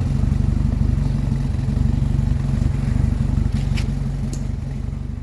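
Premier Padmini's four-cylinder engine running steadily, its exhaust giving an even low beat. Two brief clicks come in the second half.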